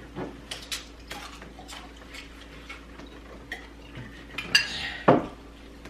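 Cutlery clinking and scraping against plates during a meal, in scattered light clicks, with two louder knocks near the end.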